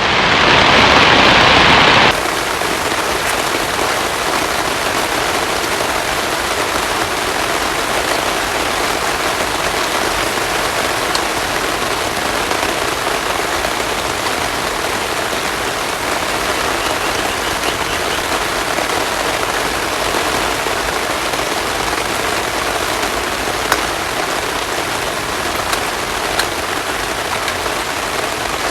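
Heavy rain falling as a steady, even hiss. For the first two seconds it is louder and brighter, then it drops abruptly to a slightly quieter steady downpour.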